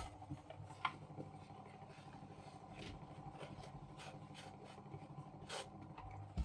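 Paper laminator's small electric motor running with a steady hum, while the heated rollers do not turn: the owner suspects a cogwheel inside that is not spinning. Light scraping and rubbing, with a couple of faint clicks.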